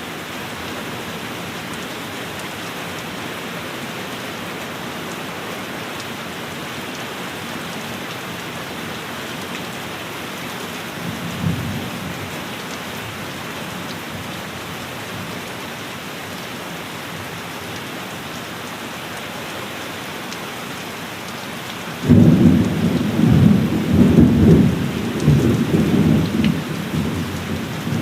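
Steady heavy rain throughout, with a short low roll of thunder about halfway through. Near the end a loud thunderclap breaks in suddenly and rolls on in waves for several seconds.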